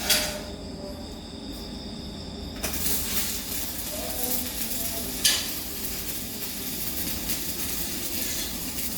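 Electric welding arc crackling and sizzling, setting in about two and a half seconds in and running steadily, with a sharp pop about five seconds in.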